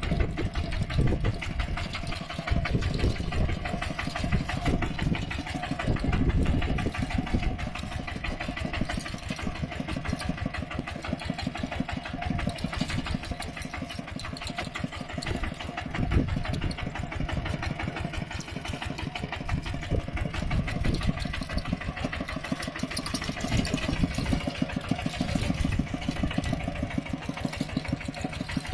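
A mini tractor's engine running steadily with a rapid, even chugging beat, swelling louder in the low end now and then.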